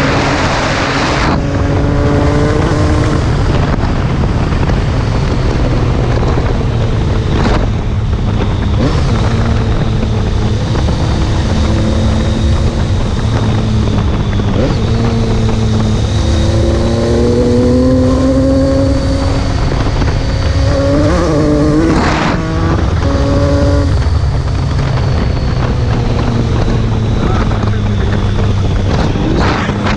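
Triumph Tiger 800 XCx's three-cylinder engine running under way, its pitch rising and falling repeatedly as the throttle opens and closes, over a constant low rumble of wind on the microphone.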